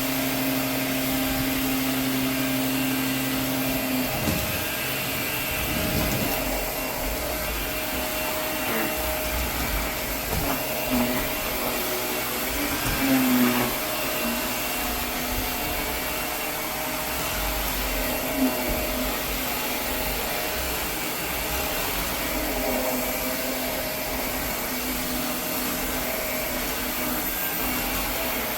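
Vacuum cleaner running steadily, picking up cut hair from the floor. Its hum shifts now and then, with a few brief knocks about four to six seconds in and again around thirteen seconds.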